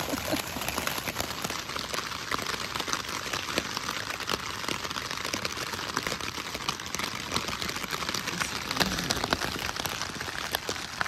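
Steady rain falling, with many close drops striking as sharp ticks.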